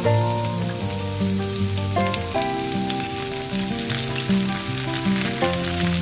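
Food sizzling and crackling as it fries in a pan, under background music of sustained chords.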